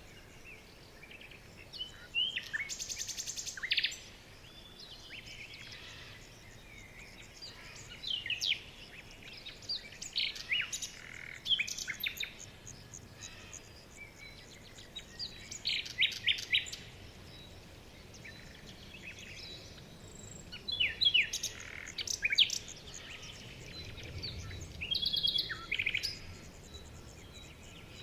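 Songbirds calling in short, scattered phrases of high chirps, quick falling whistles and rapid trills of repeated notes, with pauses between them, over a faint steady background hiss.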